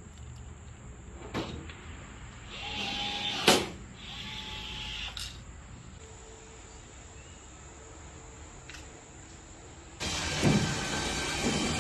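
A small electric motor whirring twice, each run about a second long, the first ending in a sharp click. About ten seconds in, a louder, steady noise sets in.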